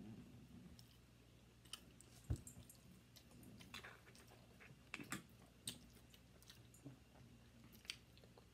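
Faint chewing and mouth sounds while eating chili fries, with scattered small clicks of a plastic fork in a takeout tray and a single low thump a little over two seconds in.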